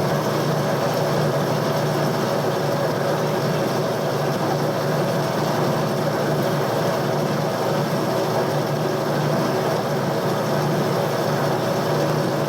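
A machine tool's motor and drive running steadily with a constant hum.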